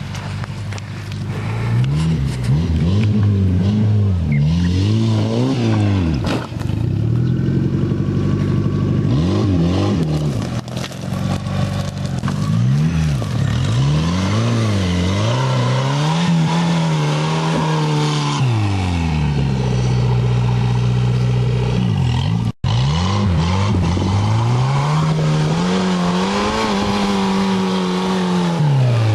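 Buggy engine sound revving up and down over and over, its pitch rising and falling in smooth sweeps, with a brief cut-out about 22 seconds in.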